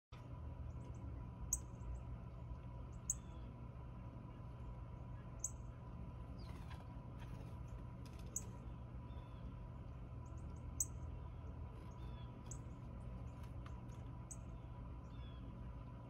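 Short, sharp songbird chip calls, one every second or two, over a steady low rumble.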